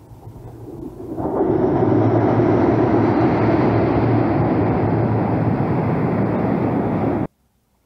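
Passenger train crossing a steel truss railway bridge: a steady rumble swells over the first second or so, holds loud, then cuts off suddenly about seven seconds in.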